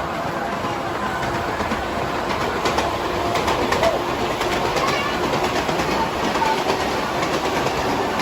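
Miniature ride-on train running along its track: a steady rumble of wheels on rail, with a quick run of clicks in the middle.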